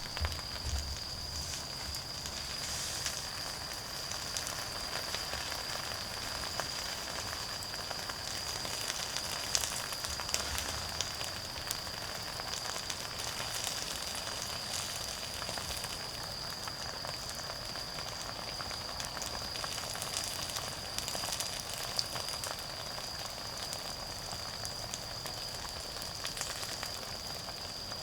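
Wood fire crackling with scattered small pops, over a continuous high-pitched trill of autumn insects.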